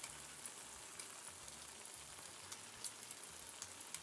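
Adobong sitaw (green beans and bacon) sizzling in a hot pan: a faint, steady hiss with scattered small pops.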